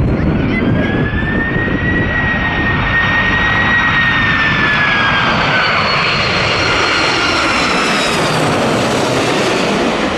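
Jet airliner engines running loud and steady. A high whine rises slightly, then slides down in pitch around the middle, and a hiss builds in the upper range toward the end.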